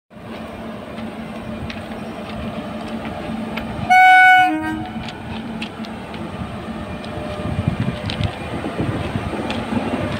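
Electric locomotive passing close by: a steady rumble of wheels on the rails that grows, one short loud horn blast about four seconds in, then scattered clicks of wheels over rail joints as it goes past.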